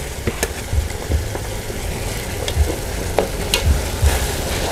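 Fried chicken thighs sizzling in a garlic and fish-sauce glaze in a wok, with metal tongs clicking and scraping against the wok and tray as pieces are turned and lifted out. A few sharp clicks stand out over the steady sizzle.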